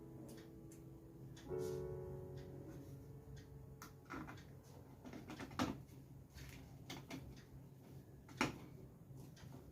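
Soft background piano music in the first few seconds, then a string of light, separate clicks and knocks, the loudest two in the second half.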